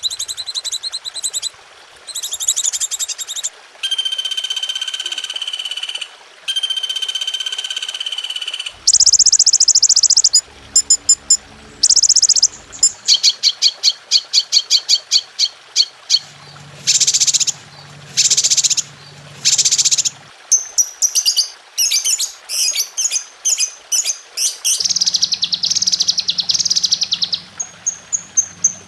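A string of different songbird songs and calls spliced one after another, changing abruptly every second or two: fast trills, held high whistles and rapid chattering. It is a masteran tutor track for training caged songbirds. A low hum sits under a few of the segments.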